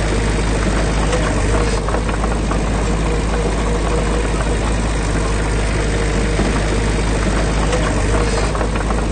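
Heavy diesel engine of construction machinery running steadily, with a constant low hum.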